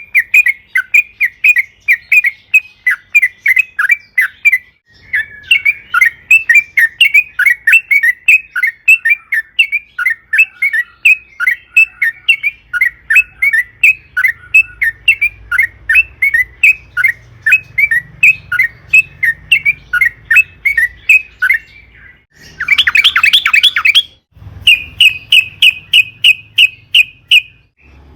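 Yellow-vented bulbul (trucukan) calling in long, rapid runs of chattering notes, about four to five a second. Near the end comes a denser burst, then a run of quick, even notes slightly higher in pitch.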